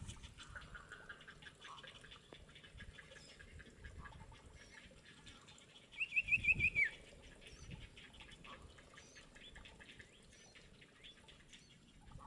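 A bird calls once about six seconds in: a quick run of about five sharp notes, ending in a falling note. Faint rapid high ticking runs underneath.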